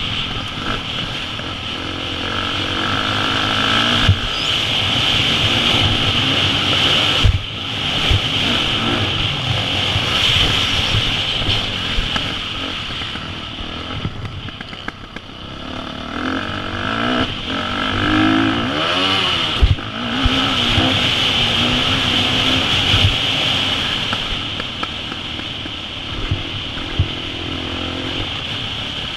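2014 KTM 350 SX-F's single-cylinder four-stroke engine being ridden on a motocross track, its revs rising and falling repeatedly, with occasional sharp knocks.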